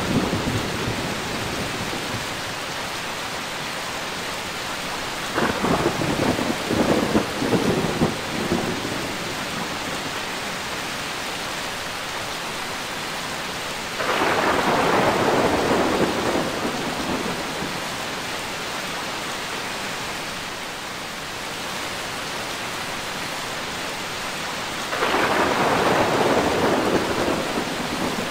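Steady heavy rain with thunder. A crackling peal of several sharp cracks comes about five seconds in. Two rolling rumbles follow, one starting suddenly around halfway and another near the end, each dying away slowly.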